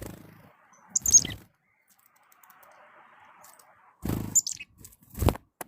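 Chickadees giving short high calls that drop in pitch, twice: about a second in and again about four seconds in. Low thumps and rumbles come with each call, and once more near the end.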